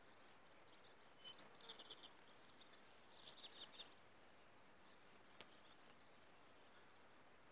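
Faint outdoor ambience with a small bird twittering in two short phrases of quick, high repeated notes, about a second in and again about three seconds in. A single sharp tick a little after five seconds.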